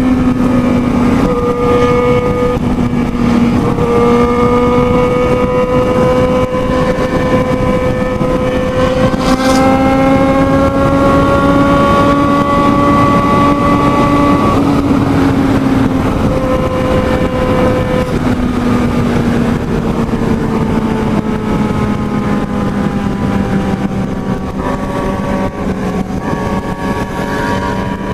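Motorcycle engine running hard at high speed with a loud rush of wind over it; the engine note climbs slowly, drops about halfway through, then holds and sinks gradually.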